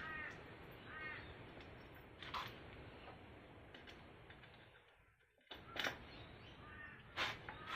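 A few faint, sharp clicks and taps of metal hardware (bolts, nuts and washers) being handled and fitted to a motor bracket, with a bird giving short, harsh, repeated calls in the background near the start and again near the end.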